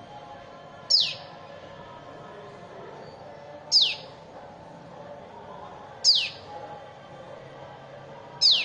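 A young bird chick calling: four loud, sharp chirps, each sweeping quickly down in pitch, about two and a half seconds apart.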